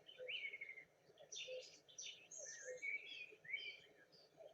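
Faint songbirds chirping: a string of short, high, quick notes and twitters, some rising and some falling.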